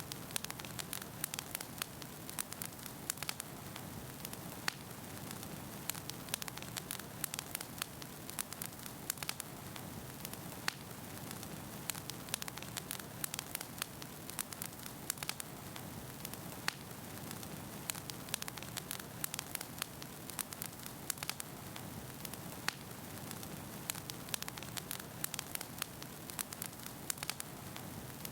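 Wood fire burning in a fireplace: a steady low rush of flames with frequent irregular crackles and pops of burning firewood.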